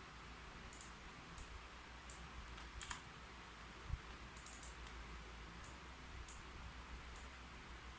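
Keyboard keys being typed slowly and unevenly: scattered light clicks with pauses between them, one sharper click about three seconds in and a soft thump just after, over a faint steady hiss.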